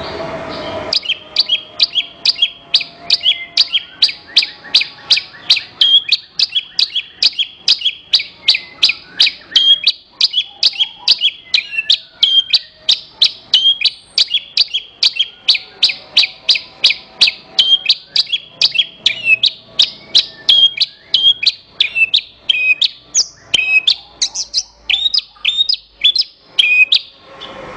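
Javan bush lark (branjangan) singing: a long, even run of short, sharp, high chirping notes, about two to three a second, starting about a second in.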